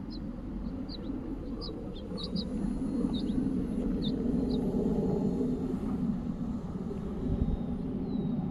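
A small bird chirping in short, high, separate notes, about a dozen of them over the first four seconds or so. Under them runs a steady low rumble, which grows louder about two seconds in and is the loudest sound.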